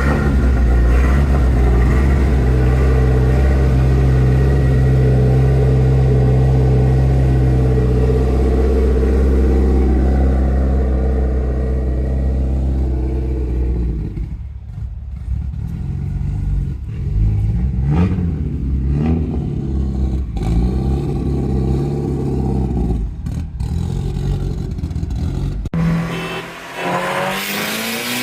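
Mitsubishi Lancer Evolution VII's turbocharged 4G63 four-cylinder engine running at steady revs, then revving up and down. Near the end it cuts to the engine climbing in pitch under acceleration.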